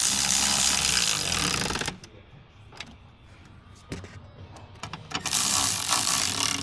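Power tool running twice, driving the fasteners on the plastic coolant valves: a burst of about two seconds at the start, a quieter gap with a few clicks, then a second run starting about five seconds in.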